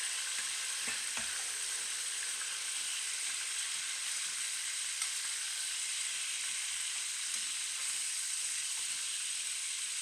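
Chicken thighs sizzling skin-side down in hot olive oil in a cast iron pot: a steady, even frying hiss, with a few small clicks about a second in.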